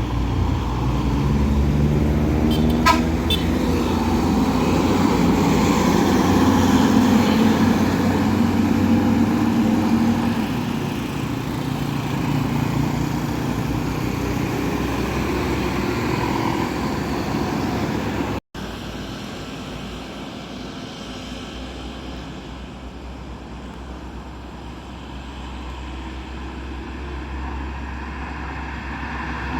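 Road traffic with a heavy vehicle passing close, its engine loudest over the first ten seconds, and a vehicle horn honking. After a brief cut the traffic noise is quieter and steady.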